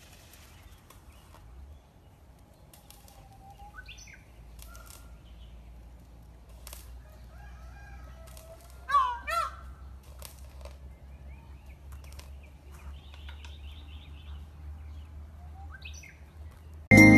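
Quiet outdoor ambience with a faint low hum, scattered rustles and clicks, and small birds chirping. About nine seconds in, a bird gives two loud, short calls in quick succession.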